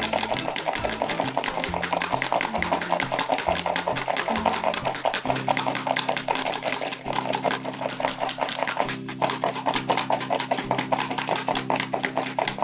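Ice cubes mixed with coarse salt rattling as they are shaken hard and fast, several strokes a second, to freeze a sealed bag of syrup, over background music.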